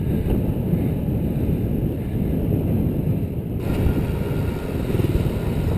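Wind buffeting the microphone of a camera carried on a moving bicycle, with tyre and road rumble: an uneven low rush throughout.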